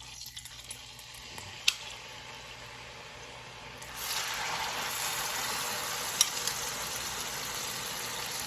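Chicken frying in hot olive oil in a pan, a steady sizzle that grows louder about four seconds in, with a couple of sharp pops.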